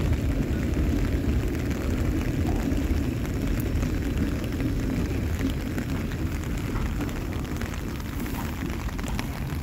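Canadian National freight train's tank cars rolling past: a steady low rumble of steel wheels on rail, easing off slightly near the end.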